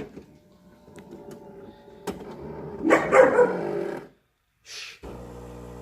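Miele super-automatic espresso machine at work during its grind-and-brew cycle. There are light clicks and irregular mechanical noise, then a short pause, and about five seconds in a steady motor hum starts.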